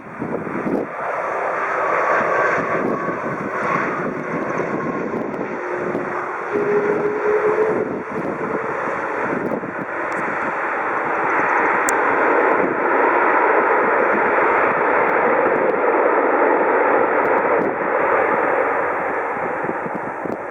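Airbus A330-200 twin-engine jet airliner landing: a steady jet engine noise with a faint engine tone showing for a few seconds, swelling louder through the middle and fading near the end.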